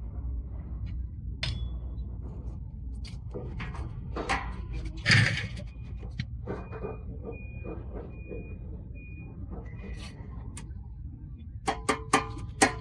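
Workshop hand work on engine parts: scattered metal clinks and knocks over a steady low hum, with one louder clatter about five seconds in and a quick run of sharp clicks near the end.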